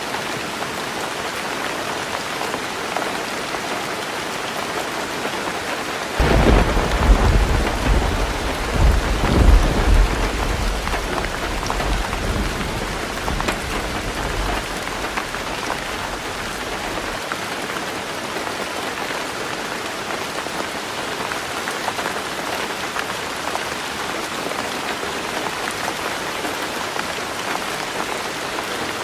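Heavy rain drumming steadily on a roof, with a thunderclap breaking in suddenly about six seconds in, loudest over the next four seconds, then rumbling away over about ten seconds more.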